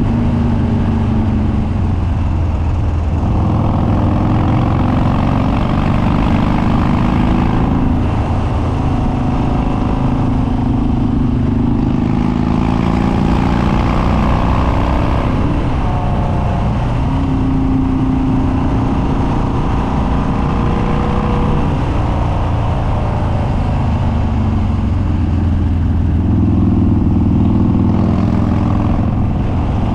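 Harley-Davidson Dyna Street Bob's Twin Cam V-twin with Stage 2 Andrews 48H cams and open air filter, running loud through unbaffled upswept dual exhaust while riding. The engine note climbs and falls several times as the throttle is rolled on and eased off.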